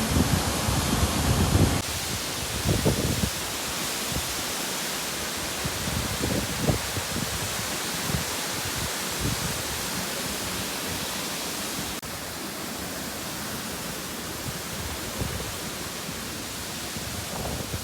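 Bomburu Ella, a wide waterfall, with water falling in a steady rushing noise. A few low bumps sound in the first few seconds, and the level drops slightly about twelve seconds in.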